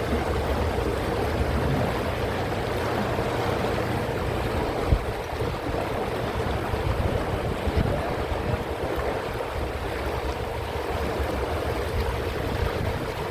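Canal tour boat under way: a steady motor hum with water wash and a low rumble of wind on the microphone, broken by a couple of brief low thumps.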